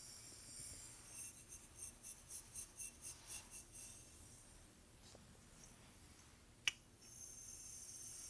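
A brush drawn through hair in quick, scratchy strokes, about four a second for a few seconds, then a single sharp click and a soft steady hiss of brushing.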